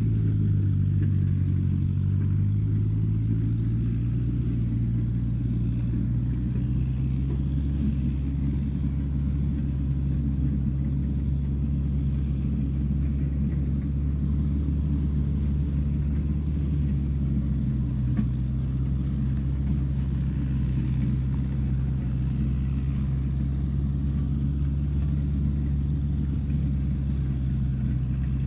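Tractor engine running steadily with a low, even rumble. Its note shifts slightly in the first few seconds, then holds.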